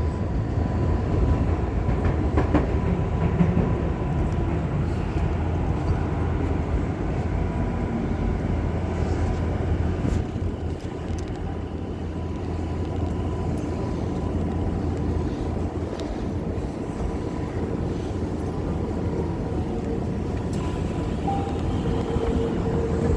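Tokyu 5050-series (4000 subseries) electric train running steadily, a continuous rumble of wheels and motors with a faint steady high tone.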